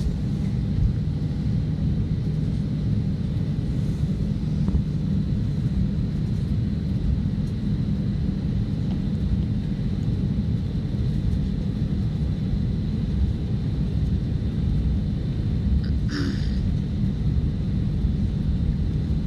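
Steady low rumble of an airliner's jet engines and airflow heard inside the passenger cabin, with a faint steady high whine. There is one brief short sound about 16 seconds in.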